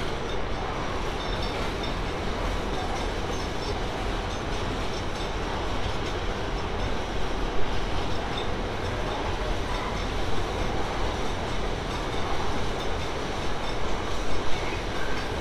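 A long train rolling past at close range: steady noise of wheels on rail, with a few sharp clacks as the wagons go by.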